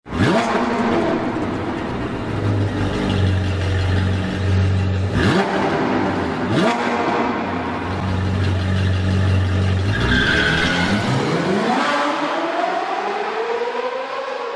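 Sports car engine running with a steady low note, blipped twice in quick upward revs, then revved up in one long rising sweep that fades out near the end.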